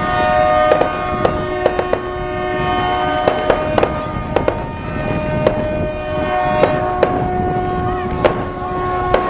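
Several boat hooters held at different pitches, overlapping, starting and stopping, with frequent sharp irregular bangs that are taken for fireworks or firecrackers.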